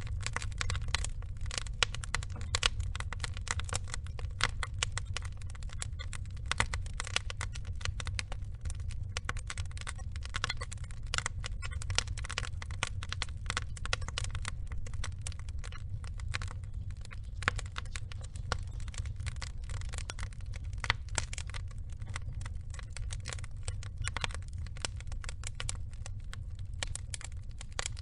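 Burning logs crackling and popping: many small irregular snaps over a steady low rumble of flame, with a few louder pops.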